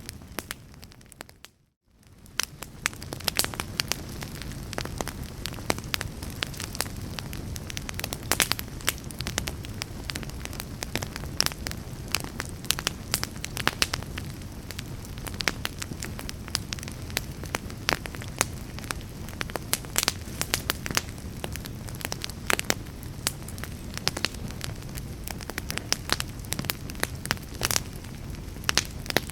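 Fireplace fire crackling and popping over a steady low rumble of flame. About a second and a half in, the sound dips briefly to near silence and fades back in.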